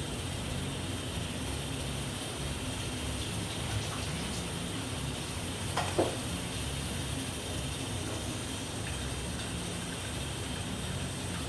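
A steady rushing noise, with a single clink of a spoon against a dish about six seconds in.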